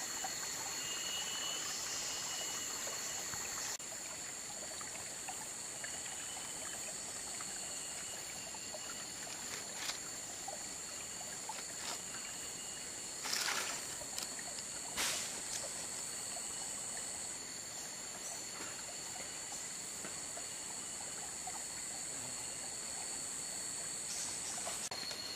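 Running water trickling under a steady, high-pitched insect chorus in tropical rainforest. Two brief louder noises come about halfway through.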